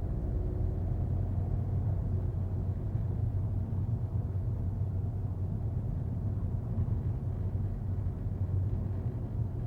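Steady low rumble of a 2025 Volkswagen Golf TDI being driven, its 2.0-litre four-cylinder diesel and tyre noise heard from inside the cabin.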